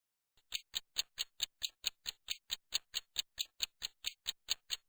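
Ticking clock sound effect: quick, even ticks at about four to five a second, starting about half a second in, marking the timed pause.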